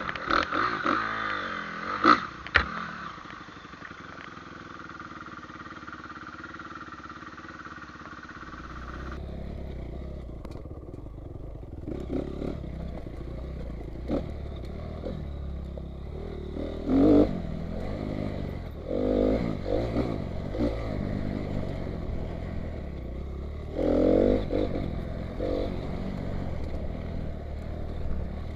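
Trail motorcycle engine running, with short revs in several surges. About nine seconds in the sound changes to a steady low rumble with the revs rising above it.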